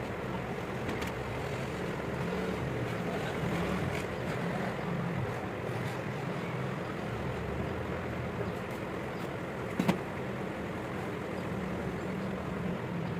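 Steady low mechanical hum, like a running motor, with one sharp knock about ten seconds in.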